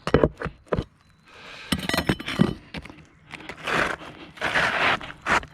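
Asphalt roof shingles being handled and worked: a few sharp knocks at first, then bursts of rough scraping and rustling as a shingle is pushed and worked against the others.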